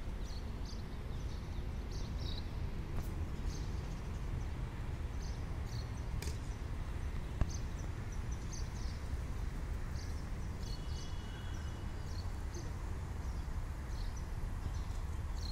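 Small birds chirping in short, repeated high calls over a steady low outdoor rumble, with a few sharp taps, the loudest about halfway through.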